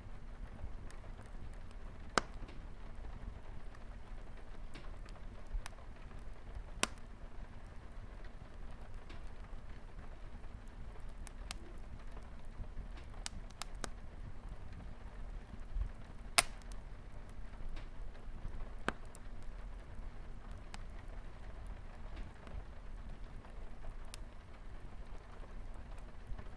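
Wood fire crackling, with sharp pops at irregular intervals, the loudest about 2, 7 and 16 seconds in, over a steady hiss of light rain.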